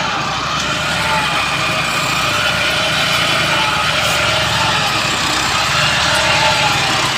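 Diesel tractor engine running steadily at a constant speed, with an even low chugging pulse and faint wavering higher tones over it.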